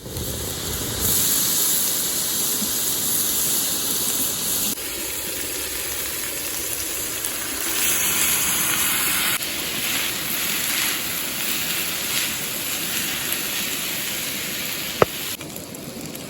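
Food sizzling in a MUURIKKA campfire frying pan, a steady hiss whose level jumps abruptly up and down several times. A single sharp click sounds near the end.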